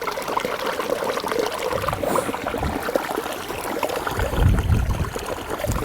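Running water trickling and splashing, with irregular low thumps, the strongest about four to five seconds in.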